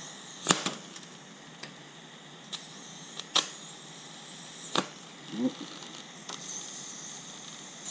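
TIG welder tack-welding a cut steel clamp: a steady high hiss with a handful of sharp clicks and snaps, the loudest about half a second in and near the end.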